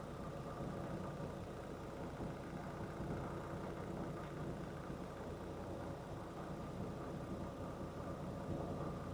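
Semi truck's diesel engine idling with a steady hum.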